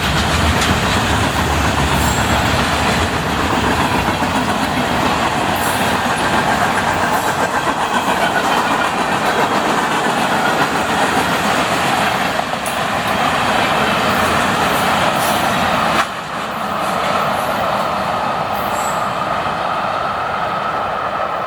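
Freight cars of a long manifest train rolling past, with wheels clattering over the rail joints. The noise drops suddenly about sixteen seconds in, and a lower steady rumble continues after it.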